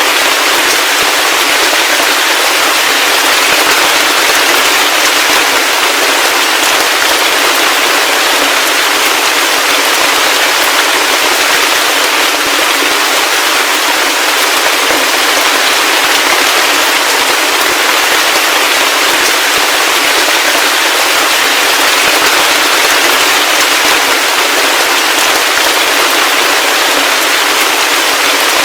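Heavy rain falling steadily: an unbroken hiss with a dense, fine crackle of drops and no low rumble.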